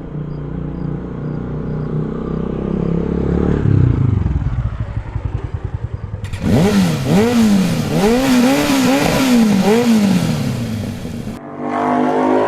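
Motorcycle engine running steadily, then from about halfway revved up and down in several blips, its pitch rising and falling about once a second. Near the end it cuts abruptly to a different engine sound.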